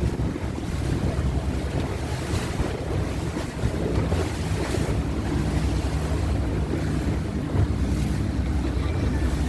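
Boat under way at sea: a steady low engine rumble mixed with wind buffeting the microphone and the wash of water.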